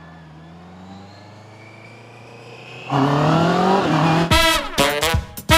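Honda CBR sport bike engine idling quietly, then revved hard about three seconds in, rising in pitch, and breaking into rapid choppy throttle bursts near the end.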